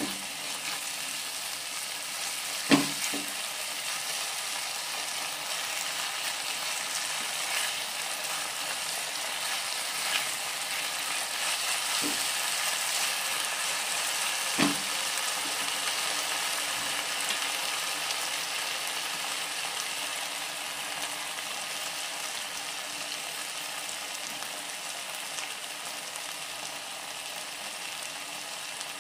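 Diced vegetables in sauce sizzling in a nonstick wok while a spatula stirs them, a steady hiss broken by a few sharp knocks, the loudest about three seconds in.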